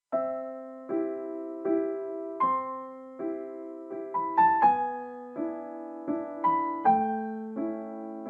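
Gentle outro music: soft electric piano playing sustained chords that change about every three-quarters of a second, each one fading after it is struck.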